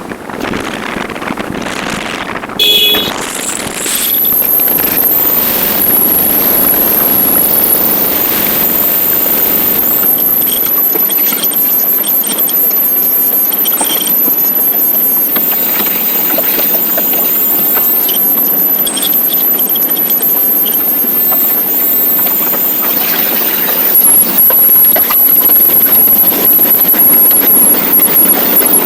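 Wind rushing over a motorcycle rider's microphone at road speed, with the bike running underneath it. The rush is steady, gets louder about four seconds in, and rises again later.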